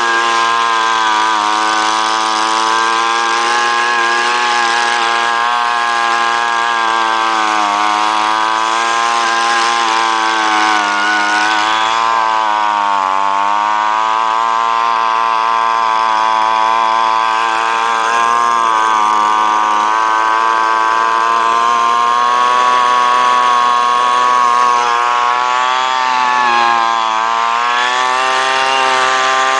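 Gas leaf blower engine running at high speed with a steady pitch that briefly sags a few times, most deeply about halfway through, as the throttle eases.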